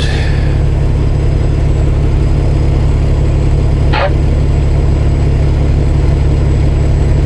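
Semi truck's diesel engine running with a steady low drone, heard from inside the cab. A single brief squeak about four seconds in.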